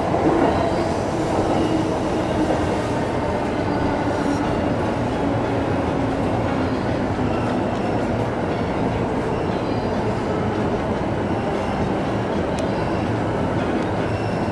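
Chuo Line electric train running, heard from inside behind the driver's cab: steady wheel and rail noise, with a motor whine that falls in pitch over the first few seconds.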